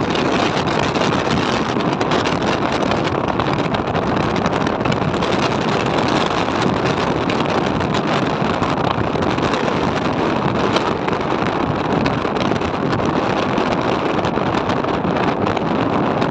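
Wind rushing over the microphone of a moving bike, a steady loud roar, with the ride's road and vehicle noise mixed in.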